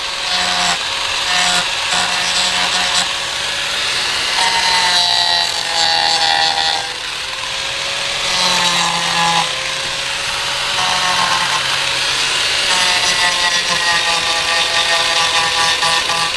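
Handheld power cutting tool running with a steady whine as it cuts and shaves wood out of the insides of letters carved into a wooden slab.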